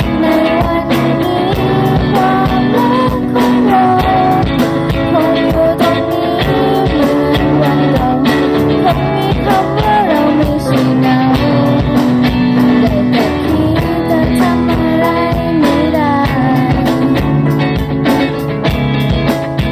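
Rock band music, a guitar line with bending notes over bass and a steady drum beat.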